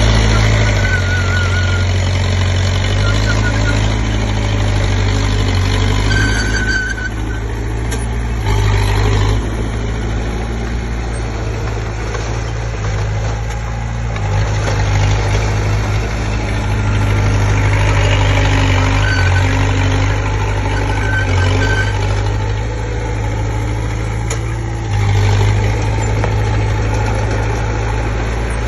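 Komatsu D20P bulldozer's diesel engine running under load, its level rising and easing several times as it works, with a few brief high squeals now and then.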